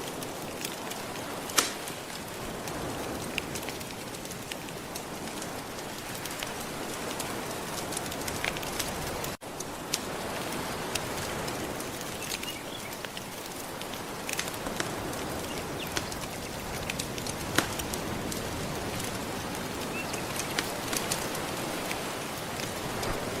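Wood fire crackling with scattered sharp pops over a steady wash of gentle ocean waves. The sound cuts out for an instant about nine seconds in.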